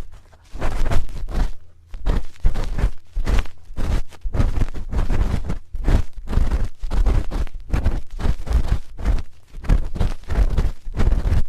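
A spoon rubbing and scraping at a microphone's ear in quick repeated strokes, about two a second, very close with a deep rumble of handling under each stroke.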